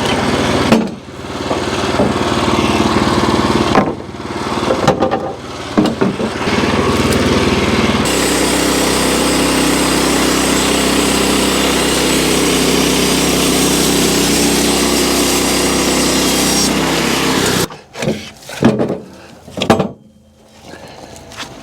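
Wood-Mizer LX25 portable band sawmill running, its engine under load as the band blade cuts through a red oak log. A steady cut lasts about nine seconds in the middle. The sound then stops abruptly and is followed by a few knocks.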